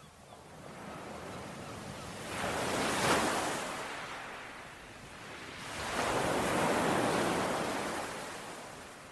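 Ocean waves breaking and washing up the shore, two swells of surf about three and a half seconds apart, each building and then fading away.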